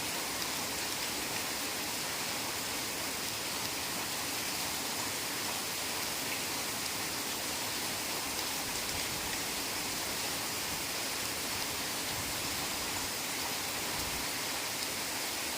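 Heavy rain falling in a steady, even downpour: a constant hiss with no single drops or thunder standing out.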